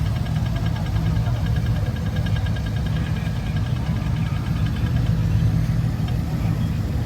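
A motor vehicle's engine running steadily with a low rumble, with a faint fast ticking over it for the first few seconds.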